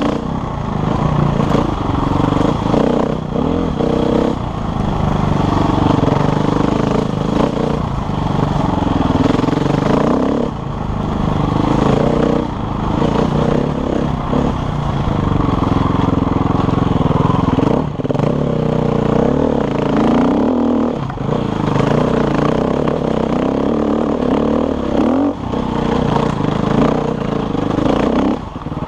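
Enduro motorcycle engine riding a trail, revving up and down constantly as the throttle is opened and rolled off, with a few brief drops in loudness.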